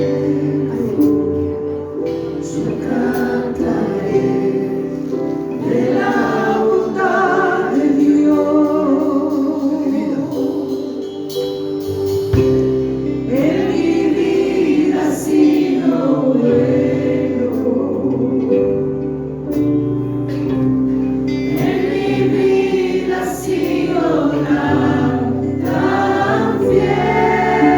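Gospel worship music: voices singing together over sustained keyboard chords.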